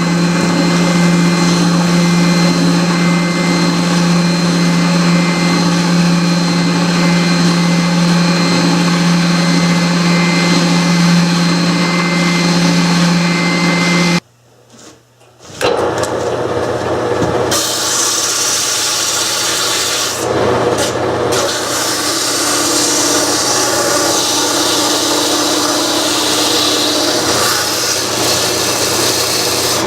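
Electric sander running steadily with a strong hum, sanding rough edges off wooden toy tractor tires. It stops abruptly about halfway through, and after a second's pause a machine starts again with a rougher, scratchier sound of wood being abraded.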